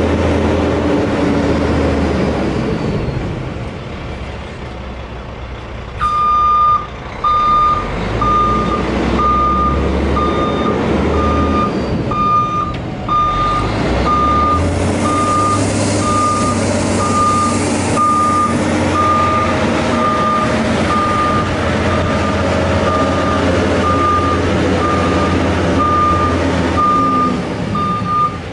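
1998 International 2674 dump truck's diesel engine running. From about six seconds in, its reversing alarm beeps steadily, about once a second, as the truck backs up.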